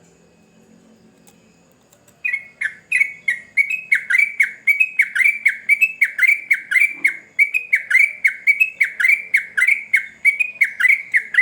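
Yellow-vented bulbul (trucukan) singing a long, rapid run of short, falling notes, several a second. The run starts about two seconds in and keeps going without a break.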